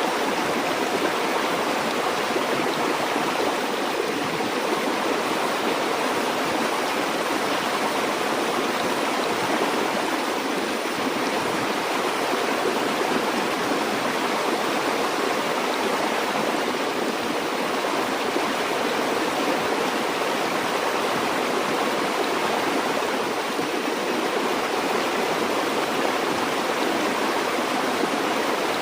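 River or stream water flowing steadily, a constant rushing babble.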